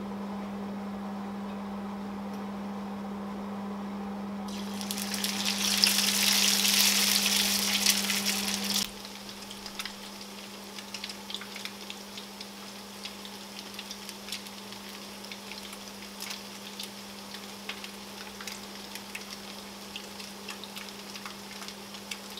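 Grated-potato cakes frying in hot oil in a frying pan. A steady low hum is joined about four and a half seconds in by a loud sizzle as the potato goes into the oil. About nine seconds in the level drops abruptly, and the rest is a quieter, steady sizzle with many small pops and crackles.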